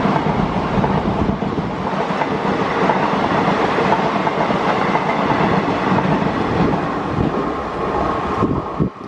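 A train passing close by, its wheels clattering over the rails in a loud, steady rush. The sound changes abruptly near the end.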